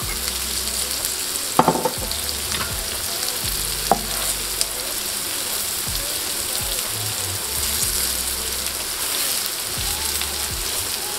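Curry-battered mushrooms sizzling in hot oil in a nonstick skillet, with a steady hiss, while a wooden spatula stirs and scrapes them around the pan. There are two sharp knocks against the pan, one about a second and a half in and one about four seconds in.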